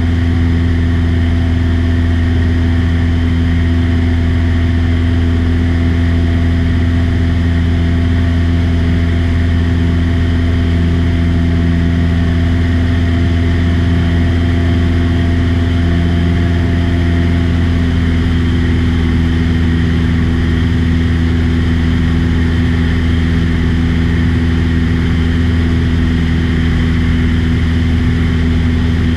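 Light aircraft's piston engine and propeller running steadily at cruise, heard from inside the cabin.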